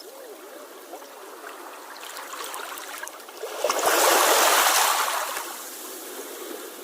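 Sea water trickling and gurgling, then a wave surges in about halfway through, washes loudly for a couple of seconds and fades back to the trickle.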